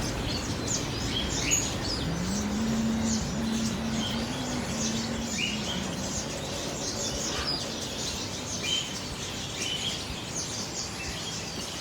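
Many caged birds chirping and tweeting in short, scattered calls, over a low steady hum.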